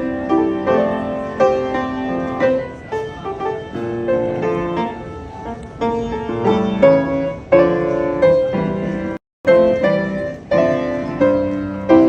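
Background piano music, a run of struck notes changing every fraction of a second, with a brief break about nine seconds in.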